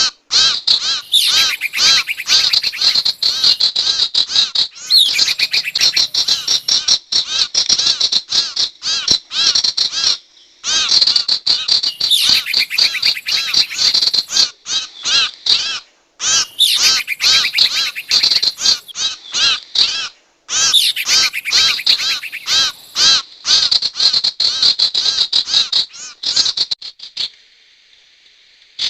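Bird-lure recording of the sirtu bird's call: rapid strings of short, arching high chirps, repeated in long runs with brief pauses between them.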